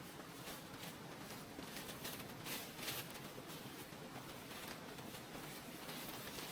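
Faint scattered rustling and crunching, a few short scrapes over a low steady hiss.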